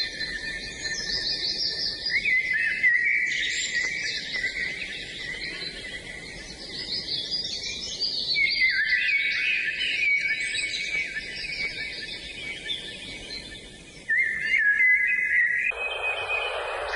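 Several songbirds singing at once, a dense chorus of overlapping high chirps, whistles and trills. A steady hiss joins near the end.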